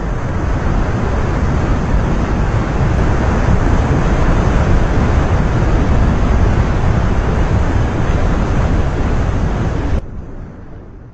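Loud, steady rush of surging water with wind buffeting the microphone. About ten seconds in it drops suddenly to a quieter rush that fades away.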